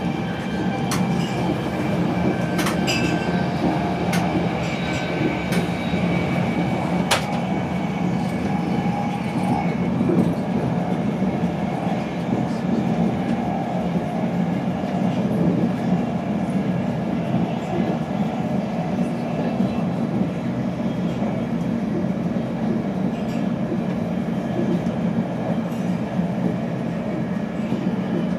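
Interior running noise of an InterCity 225 Mark 4 passenger coach travelling at speed: a steady low rumble of wheels on rail, with a few sharp clicks in the first seven seconds.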